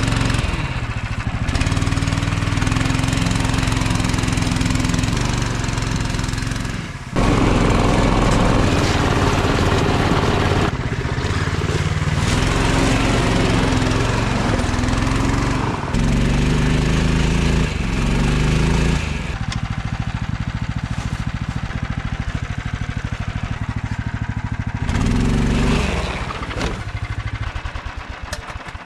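Snowdog tracked motorized sled's small engine running, in a string of clips that cut abruptly from one to the next, its pitch and loudness shifting at each cut.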